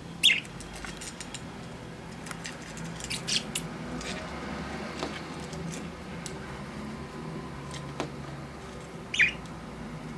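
Pet budgerigars chirping: a short chirp just after the start, a few quick high calls about three seconds in, and another short chirp near the end, with scattered light clicks and taps between them.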